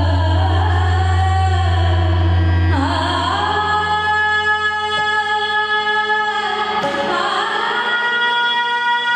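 A woman singing long held notes in an Indian classical or devotional style, sliding into new pitches about three seconds in and again near seven seconds. A steady low drone sits under the voice for the first three seconds.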